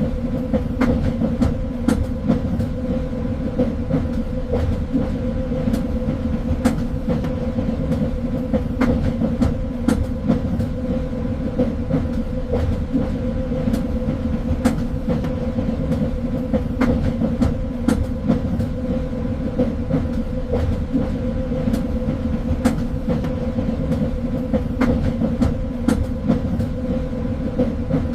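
Train running along the track: a steady low rumble and hum, with irregular clicks and knocks from the wheels on the rails.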